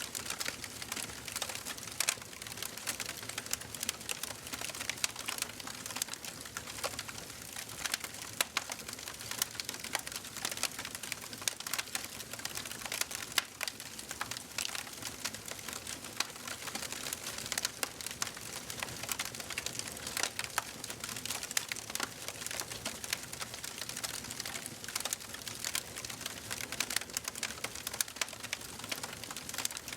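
Wood fire burning in a fireplace, crackling steadily, with many small sharp pops over a soft hiss.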